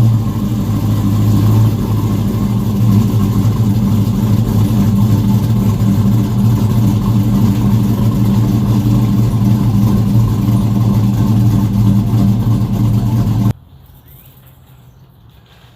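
2007 Chevrolet Avalanche's V8 engine running steadily, loud and close, then cutting off suddenly about thirteen and a half seconds in.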